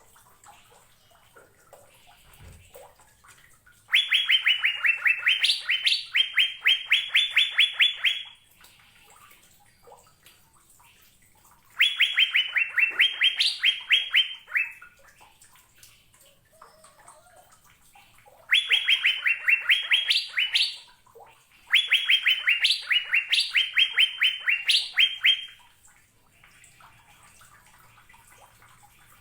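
Asian fairy-bluebird (cucak biru) singing. It gives four bursts of rapid, evenly repeated whistled notes, each lasting three to four seconds, with pauses of several seconds between.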